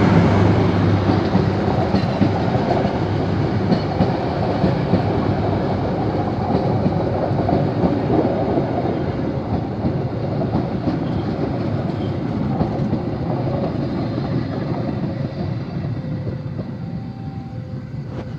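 Train running past on the rails, wheels clattering on the track, the noise slowly fading as it moves away.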